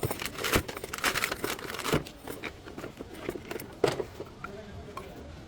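A run of light clicks, knocks and rustling, as of parts and tools being handled, with sharper knocks about half a second, two seconds and nearly four seconds in.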